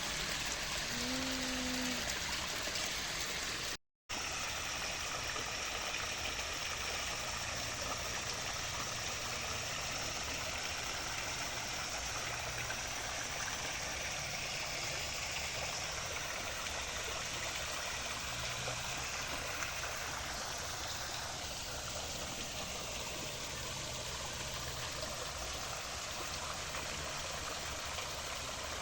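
Water running steadily in a stream, an even rushing sound, broken off once by a brief gap about four seconds in.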